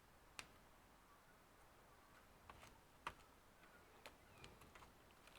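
Near silence, broken by a few faint, irregular clicks of small plastic and metal laptop parts being handled.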